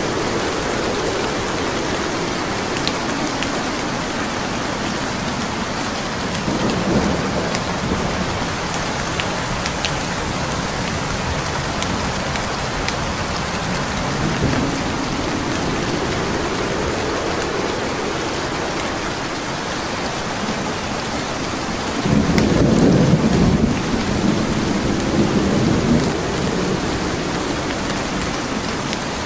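Steady rain with low rolling rumbles of thunder, a short one about seven seconds in and a louder, longer one about 22 seconds in. Faint scattered crackles from a wood fire sound over it.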